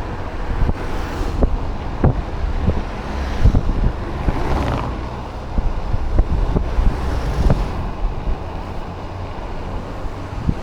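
Wind buffeting the camera microphone of an e-bike in motion, a steady low rumble and hiss with irregular thumps and knocks throughout.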